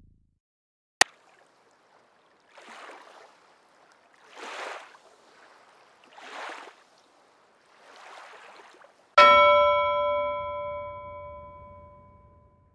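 Editing sound effects under the end credits: a single sharp click, then four soft rushing swells about two seconds apart, then a bell-like chime struck once near the end that rings and fades away.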